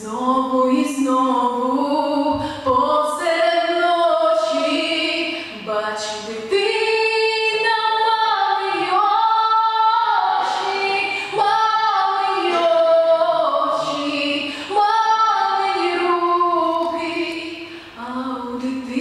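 A female voice singing a slow, wordless melody with long held notes that glide between pitches.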